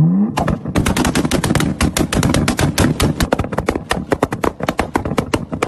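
Car exhaust popping and crackling in a rapid, irregular string of sharp bangs, roughly eight a second, like gunfire. A brief rising engine rev comes just at the start.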